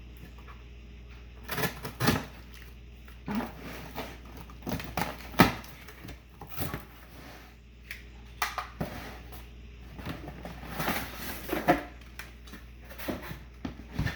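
A cardboard shoebox being opened and handled, with irregular knocks, clicks and rustling, the sharpest knock about five and a half seconds in.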